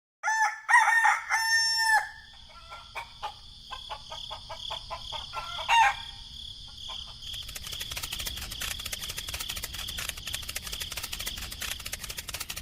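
A rooster crowing, then a few short clucks and clicks with one more brief call. From about seven seconds in, a steady high buzzing with fast ticking takes over.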